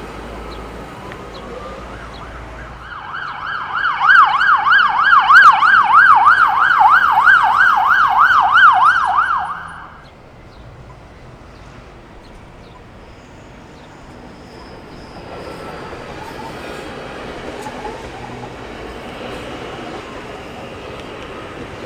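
Emergency vehicle siren on a fast yelp, wailing up and down about three times a second, loud for about seven seconds before cutting off, with steady traffic noise around it.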